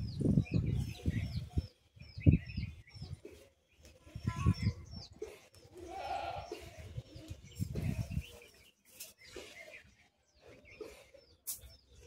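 Birds chirping in a tree: short, high chirps that slide downward, repeated many times, over irregular low rumbling, with a couple of sharp clicks near the end.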